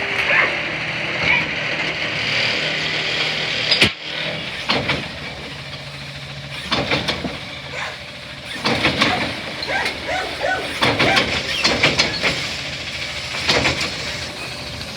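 CNG Autocar Xpeditor side-loader garbage truck (New Way Sidewinder body) running, with a hiss for the first few seconds and a single sharp knock about four seconds in, then scattered clanks and knocks.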